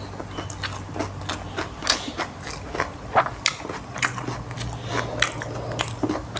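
A person chewing and biting food close to the microphone, with many short, irregular crunches.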